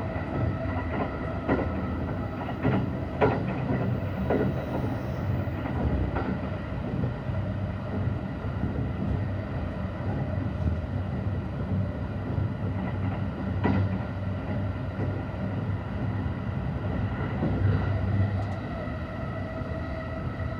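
JR East E235-1000 series electric train heard from inside the car while running at speed: a steady rumble of wheels on rail under a faint steady whine, with scattered sharp clicks as the wheels cross rail joints.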